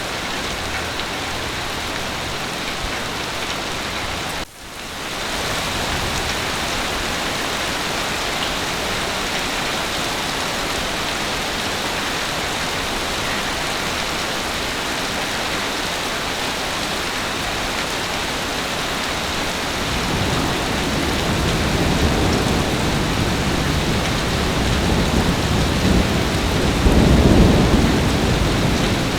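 Heavy rain falling steadily, dropping out for a moment about four seconds in. A low roll of thunder builds from about twenty seconds in and is loudest near the end.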